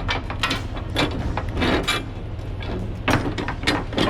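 Semi-truck idling steadily, with a series of short metallic clanks and knocks.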